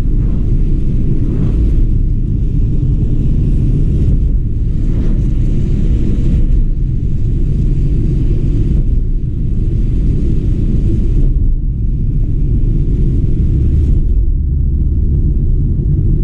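Car being driven: a steady low rumble of engine and road noise, with a hiss above it that swells and fades every few seconds.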